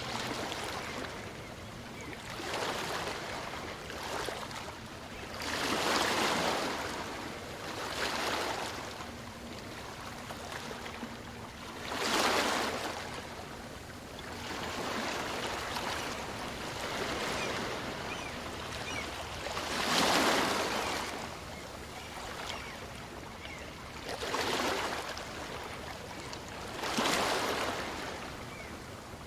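Small waves breaking and washing up a beach on a calm sea, each wave swelling and fading, with a steady wash of surf between them; the biggest breaks come at intervals of a few seconds.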